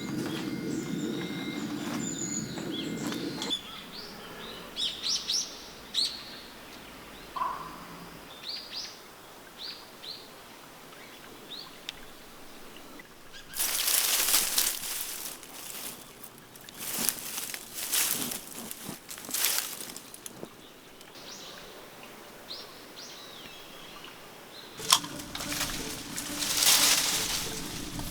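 Small birds chirping in short, scattered calls. Three louder stretches of hissing noise lasting a couple of seconds each break in around the middle and near the end, and a low hum is heard for the first few seconds.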